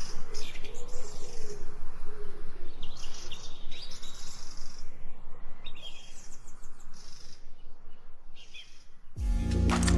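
Several birds chirping and calling over a steady low background hiss, with a lower wavering call in the first couple of seconds. Music comes in suddenly near the end.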